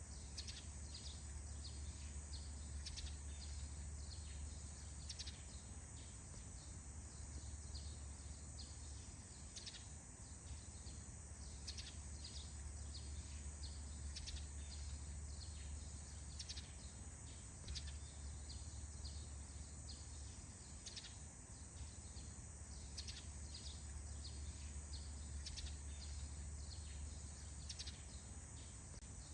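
Faint forest dawn ambience: a steady high-pitched insect drone with frequent short chirps of birds or insects, over a low steady rumble.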